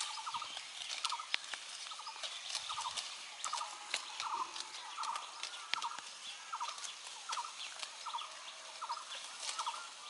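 A bird's short chattering call, a few quick notes at a time, repeated about once a second, over scattered sharp clicks and rustling from goats tearing and chewing Napier grass.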